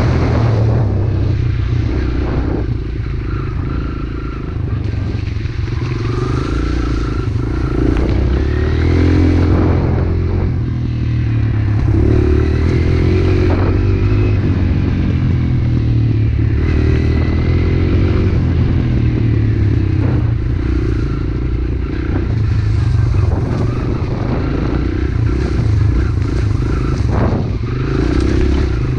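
Pit bike engine running under way, its revs rising and falling, with a few short knocks and clatter along the way.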